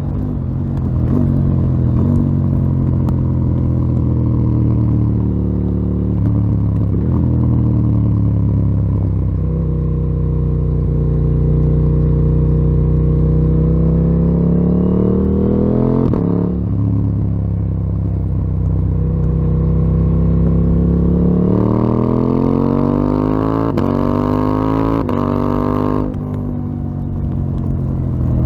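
KTM 890 Duke R's parallel-twin engine running through a full Akrapovic exhaust under riding load. Its pitch climbs as it pulls through the gears and changes abruptly at each shift or throttle change. A hard run from about three quarters of the way in climbs steeply, then cuts back sharply near the end.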